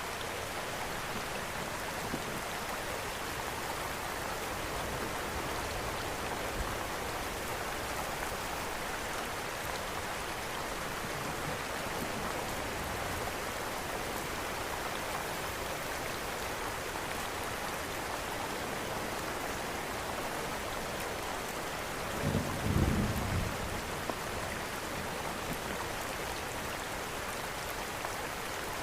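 Steady rain hiss with a few faint pops. About three quarters of the way through comes a brief, louder low rumble.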